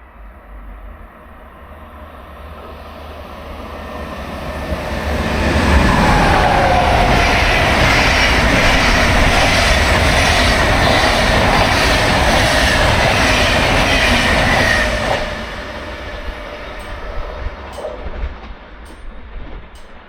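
A train passing close by on the main line: the noise builds over several seconds, stays loud for about nine seconds with a rhythmic clatter of wheels over the rails and a slowly falling whine, then drops away.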